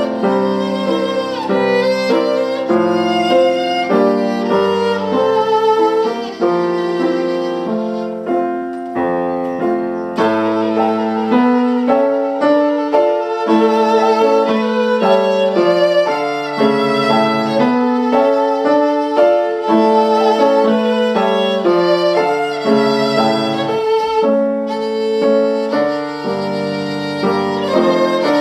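Violin playing a classical piece with piano accompaniment.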